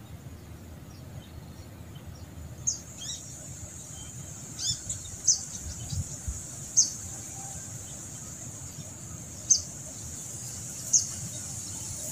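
Birds chirping: short, high, falling calls every second or two, over a steady high-pitched whine.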